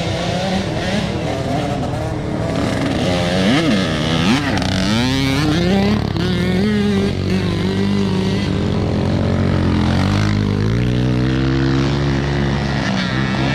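Motocross bike engines running and revving on the track, their pitch rising and falling with quick throttle blips, settling into a steadier drone after about ten seconds.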